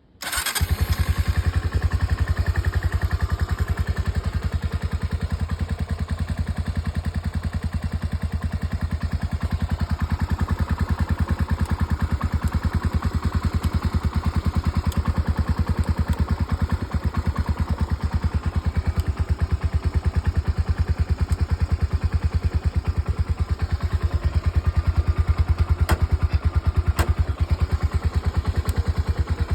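Honda CBX125 Custom's single-cylinder four-stroke engine starting from cold: it fires right at the start, then idles steadily with an even pulse. Two short clicks near the end.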